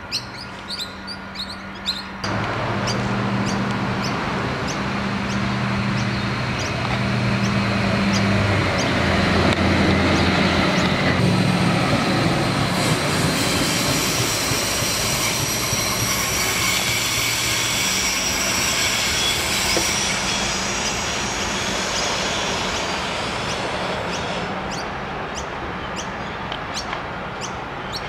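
Birds chirping for the first couple of seconds, then an Adelaide Metro 3000-series diesel-electric railcar passing close by. It starts with a steady low engine drone, then high-pitched wheel squeal as it runs through the curve past the camera. The sound fades as it pulls away, and birds chirp again near the end.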